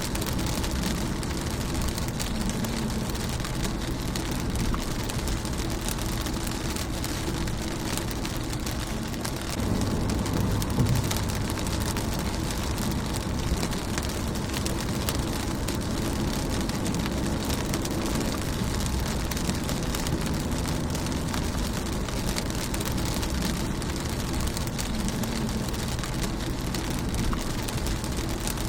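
Rain falling on a car windshield: dense patter of drop impacts over a steady rain hiss, with a low rumble underneath. The rumble swells briefly about ten seconds in.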